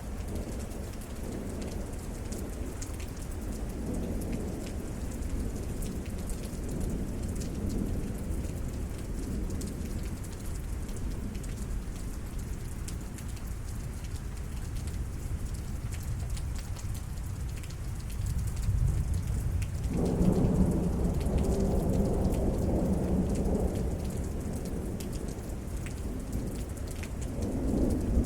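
Steady rain with rumbling thunder. A louder roll of thunder builds about two-thirds of the way through, fades, and another begins to build near the end.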